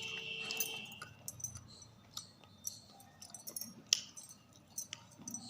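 Scattered crisp crunches and clicks of something brittle being bitten and chewed close to the microphone, the sharpest about four seconds in. Faint background music fades out in the first second.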